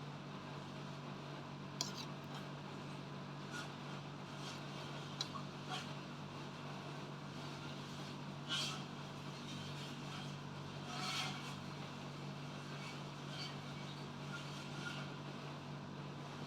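Steady low hum with a few faint, short clicks and scrapes scattered through it.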